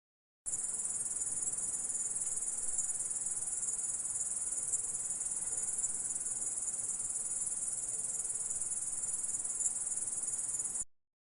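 Stridulating insect: a continuous, steady, very high-pitched trill that starts about half a second in and cuts off suddenly near the end.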